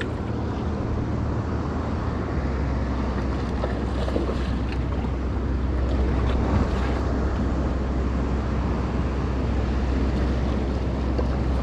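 Wind buffeting the microphone and water noise around a fishing boat, with a steady low hum underneath that strengthens about two seconds in.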